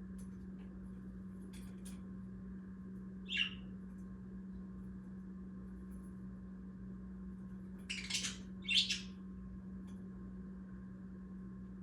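Pet budgerigars giving a few short chirps: one about three seconds in, then two louder ones close together near eight seconds, over a steady low hum.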